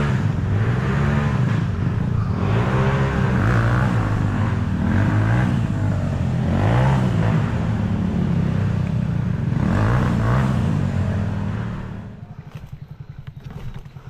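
Dirt bike engine revved up and down over and over, the pitch rising and falling with the throttle, then dropping to a low, quieter idle about twelve seconds in.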